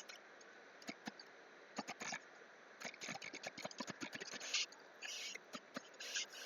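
Faint, irregular clicking of typing on a computer keyboard, with a few short soft hisses in the second half.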